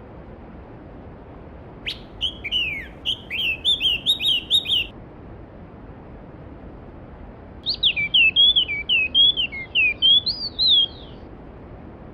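A songbird singing two quick phrases of chirping, sliding notes, each about three seconds long, a few seconds apart, over the steady rush of a flowing stream.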